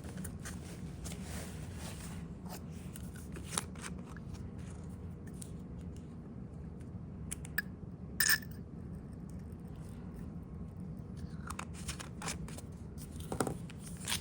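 Small handling noises: scattered light clicks and short paper rustles as a wet fountain pen is wiped dry, with one sharper click about eight seconds in, over a steady low hum.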